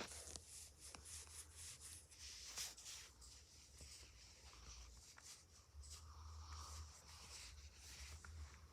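Near silence: faint scattered rustling and rubbing over a low steady hum.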